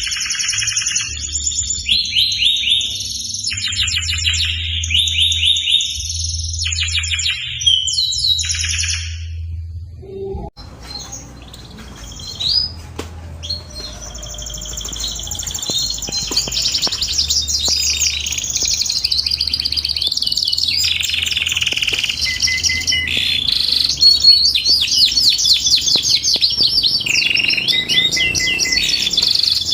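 Domestic canary singing fast trills and rolling phrases, in short bursts for the first ten seconds, then after a brief break in a near-continuous, louder run. A low steady hum lies underneath.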